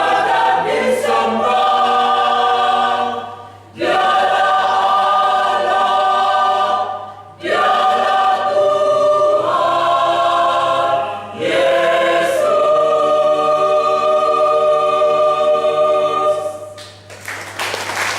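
Mixed church choir singing a hymn in parts, phrase by phrase with short breaks for breath, ending on a long held chord that fades out. A short burst of noise follows near the end.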